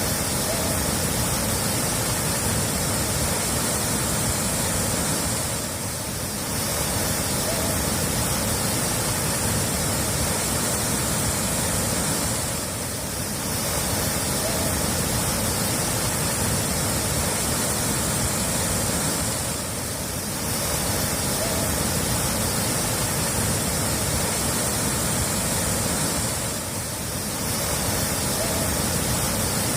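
Steady rushing of running water, a short recording played on a loop: the sound dips briefly and restarts about every seven seconds, four times.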